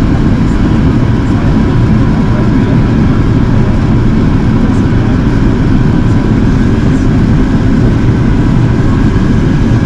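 Airbus A380 cabin noise in flight: a loud, steady low rumble of airflow and engines, with a faint steady whine running through it.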